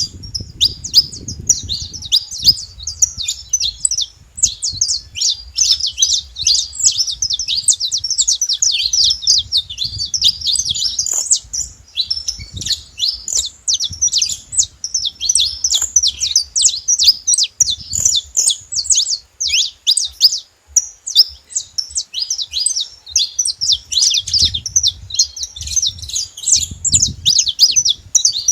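Saffron finch singing: a fast, continuous stream of quick, high chirping notes with hardly a break.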